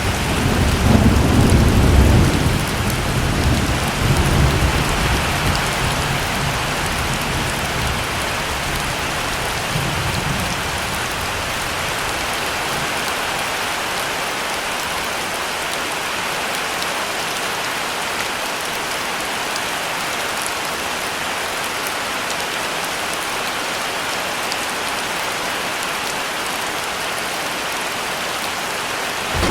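Heavy rain falling steadily, with a roll of thunder rumbling through the first ten seconds or so and dying away, leaving only the rain.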